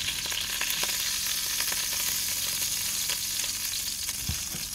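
Lamb and mint burgers frying in a Ridgemonkey non-stick pan on a gas hob: a steady sizzling hiss with scattered crackles as the fat spits.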